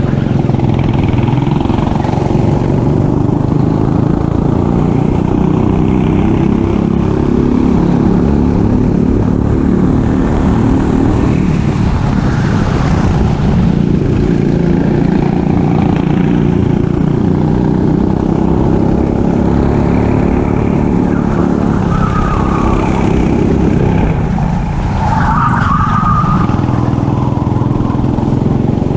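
Racing kart engine running hard, its pitch rising and falling repeatedly as the kart accelerates and slows through corners.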